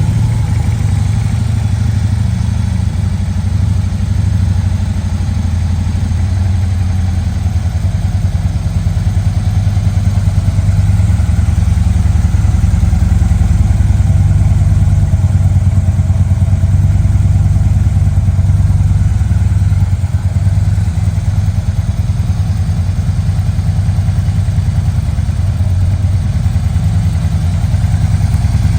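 2013 Harley-Davidson Street Glide's V-twin idling steadily through aftermarket S&S headers and Screamin' Eagle mufflers, with a deep, fast, even pulse.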